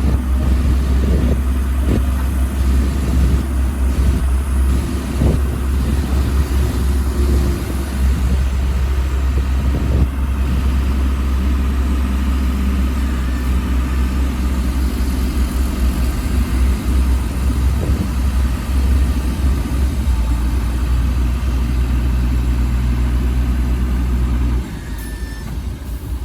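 Heavy diesel earthmoving machinery running steadily, a deep engine drone with a few knocks. The sound drops suddenly in level near the end.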